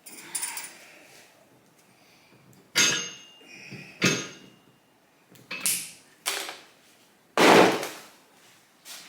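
A series of separate metallic knocks and clanks from tools and parts being handled during hands-on work on a motorcycle. There are about seven, spaced unevenly, and the loudest and longest comes about seven and a half seconds in.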